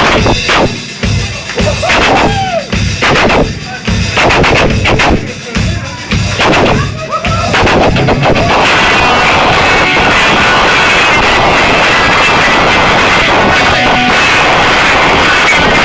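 Party crowd cheering and whistling after a toast, heavily distorted by the loud recording. Sharp irregular bangs fill the first half, then about halfway it turns into a steady dense wall of noise.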